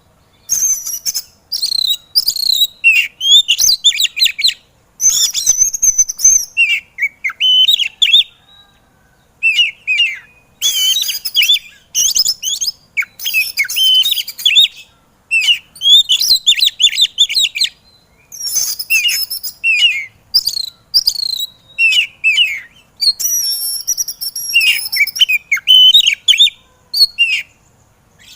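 Oriental magpie-robin (kacer) singing in rapid bursts of varied high whistles and harsh notes, broken by short pauses.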